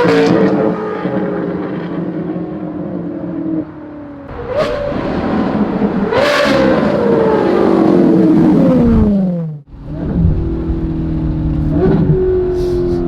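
Ferrari 458's flat-plane V8 through a titanium valved exhaust with free-flow headers, revving hard with quick gear-change jumps in pitch. Its pitch then falls away in a long glide. After an abrupt break, the engine runs at a steadier tone with short rev blips.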